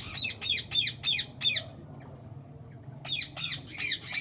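Parakeets screeching in an aviary: a rapid series of harsh squawks, about four a second and each falling in pitch, then a short pause and another burst near the end.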